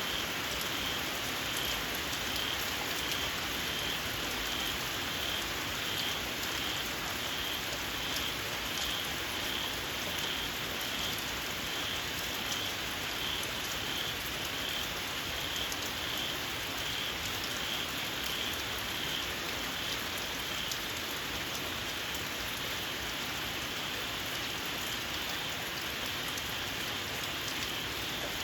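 Steady rain falling, with a small frog calling over it in a high-pitched, regular series of notes about twice a second.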